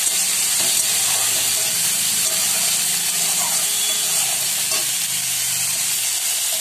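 Chopped vegetables sizzling steadily as they fry in a little oil in a hot kadai, stirred now and then with a spatula.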